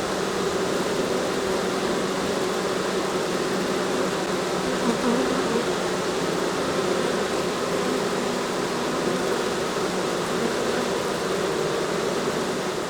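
Many honey bees buzzing together in a steady, even hum.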